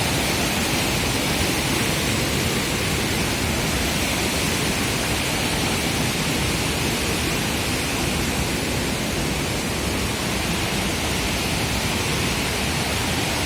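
A waterfall's falling water rushing in a steady, even roar, unchanging throughout.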